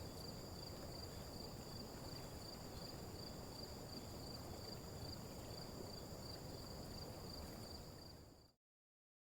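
Crickets chirping in a faint, steady high chorus over a soft hiss, fading out about eight seconds in.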